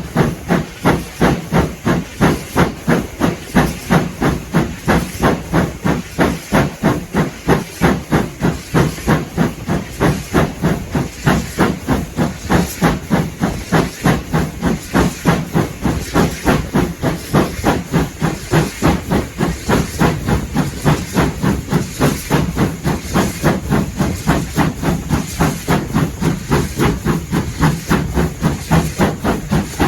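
Steam locomotive chuffing: a steady, even exhaust beat of about three chuffs a second.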